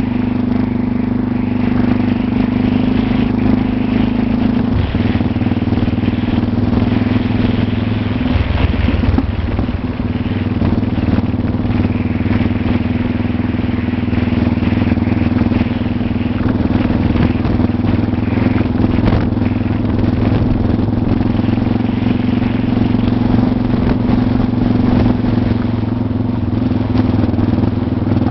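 Motorcycle engine running steadily under way on a dirt road, its note changing twice in the first eight seconds, with rattling from the rough ground.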